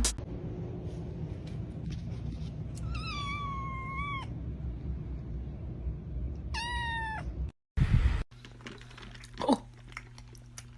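A domestic cat meowing twice: a long call about three seconds in, then a shorter, rising meow a few seconds later. A low steady hum runs underneath.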